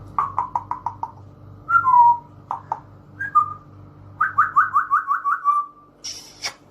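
African grey parrot whistling in quick runs of short notes, with a two-note falling whistle about two seconds in and a longer run of about eight rapid notes ending on a held note. A short hissing burst follows near the end, over a steady low hum.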